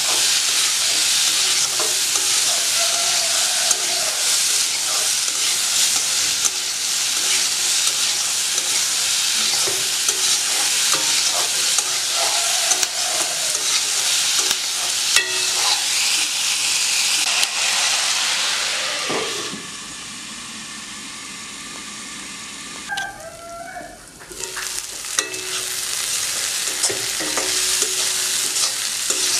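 Chopped onion leaves sizzling in hot oil in a metal kadai while a spatula stirs and scrapes them around the pan. The sizzle drops away for a few seconds about two-thirds of the way through, then picks up again.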